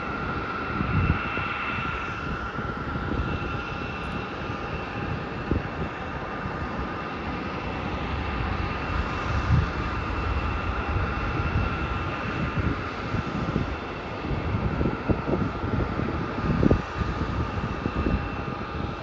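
Jet airliner engines running steadily at a distance, a high whine over a low rumble.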